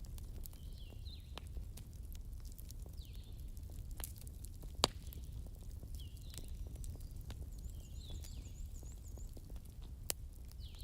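Wood campfire crackling with scattered sharp pops, one much louder about halfway through, over a low steady rumble. A bird calls repeatedly with short falling chirps, and a faint high trill comes in past the middle.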